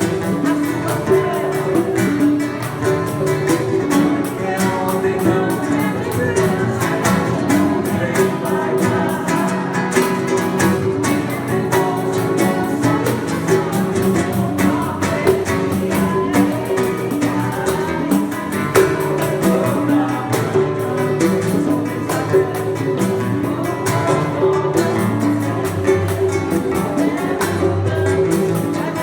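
Live Brazilian acoustic music: violão (acoustic guitar) played with hand percussion (bongos, congas and pandeiro) in a quick, steady rhythm, with singing.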